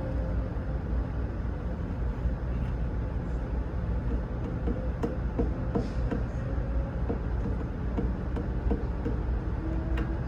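Steady low engine rumble of an idling vehicle, with a faint steady hum. A run of light ticks comes through about halfway in.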